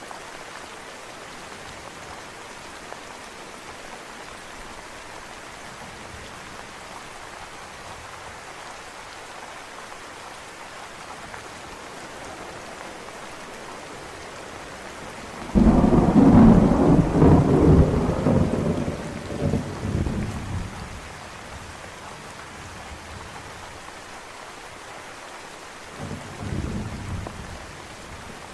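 Steady rain with a thunderclap about halfway through that cracks suddenly, rumbles and dies away over several seconds, then a smaller, softer rumble of thunder near the end.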